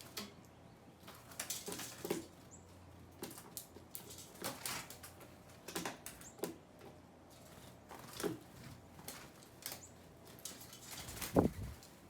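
Birds' wings fluttering and light taps as they come and go while feeding: a string of short, sudden flutters about once a second, with a louder thump near the end.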